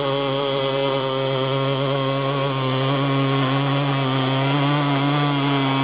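Small engine of a 1/5-scale R/C pulling tractor running flat out at high revs during a pull, holding a steady pitch that rises slightly about halfway through.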